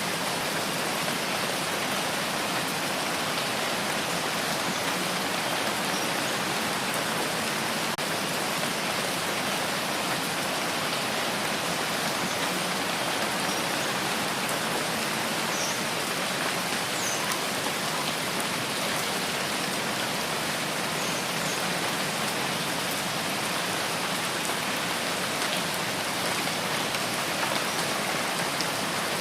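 Steady rain falling, an even hiss of many drops without breaks.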